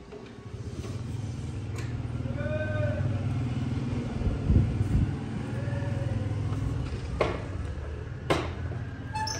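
Honda motorcycle engine running steadily at idle. A short high-pitched call rises and falls about two and a half seconds in, and there are a couple of sharp clicks near the end.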